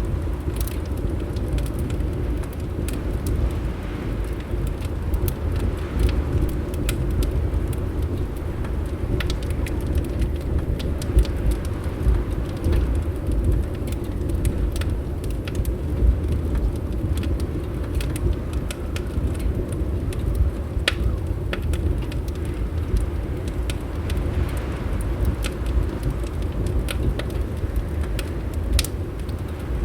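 Wood fire crackling in a fireplace, many small sharp pops scattered over a steady low rumble.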